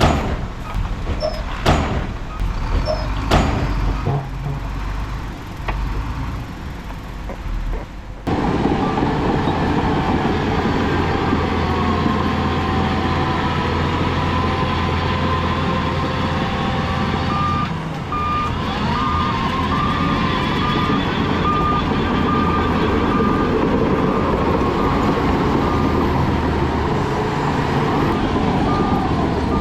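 Heavy diesel earthmoving machinery working: several sharp metallic clanks over a low engine rumble, then, after an abrupt change about eight seconds in, a steady engine drone. A reversing alarm beeps in a run of short, evenly spaced pips over it in the second half.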